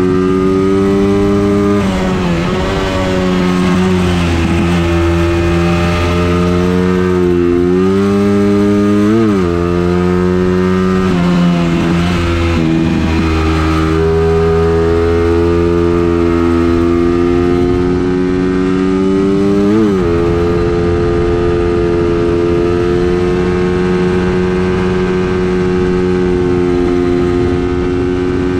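Engine of a vehicle lapping a race circuit under test, running hard. Its pitch climbs slowly along the straights and is broken a handful of times by quick dips and sharp blips as it shifts and slows for corners.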